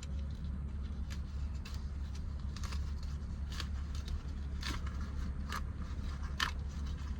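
Plastic shift-boot trim and fabric being handled and fitted by hand: irregular small clicks and rustles, roughly one a second, over a steady low hum.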